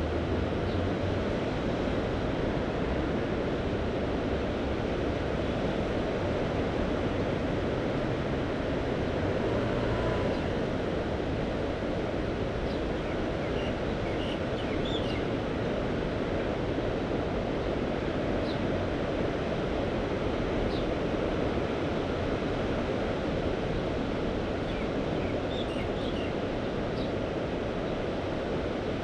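Mediterranean sea surf washing steadily, a constant even rush with no single crash standing out. A few faint high chirps come through around the middle and again near the end.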